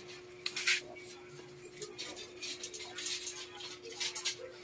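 Faint scattered clicks and light clinks of small objects handled on a tabletop, over a steady low hum.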